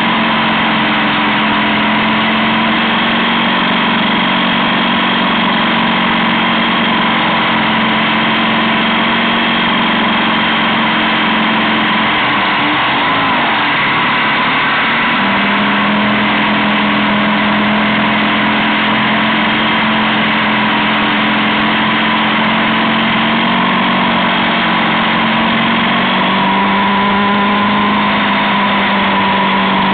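BMW F650GS motorcycle engine running at road speed, a steady hum over wind and road rush. The engine note wavers and settles lower about halfway through, then shifts pitch again near the end.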